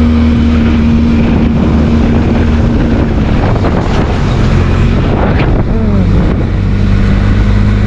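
Motorcycle on the move: the Benelli TRK 502X's parallel-twin engine running with a steady hum under heavy wind noise buffeting the microphone.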